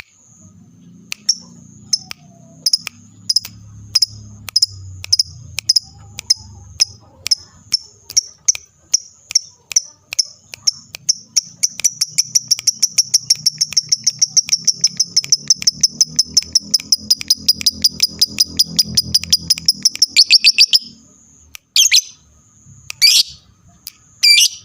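Lovebird calling in a string of sharp high ticks, about two a second at first, speeding up into a fast continuous chattering trill (the 'ngekek') that cuts off about 21 seconds in, followed by a few loud single squawks near the end.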